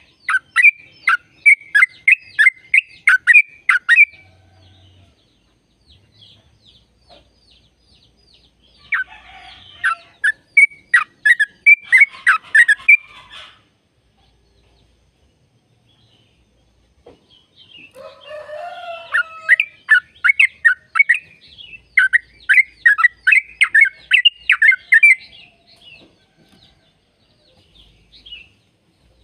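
Yellow-vented bulbul (trucukan) song: three bouts of rapid, evenly repeated chattering notes, about three to four a second, separated by pauses of a few seconds.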